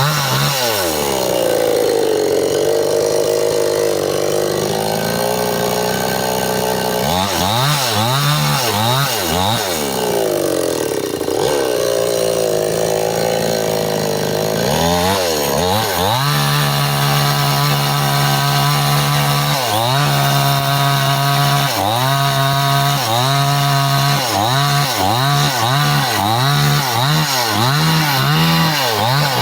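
Stihl two-stroke chainsaw cutting up a tree trunk, its engine pitch repeatedly rising and dropping as the throttle is worked and the chain bites. It holds a steady high pitch for a few seconds after the middle.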